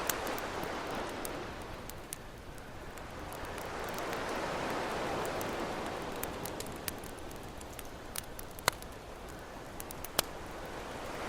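Campfire crackling with scattered sharp pops over ocean waves washing in and drawing back; the waves swell about five seconds in, and the two loudest pops come near the end.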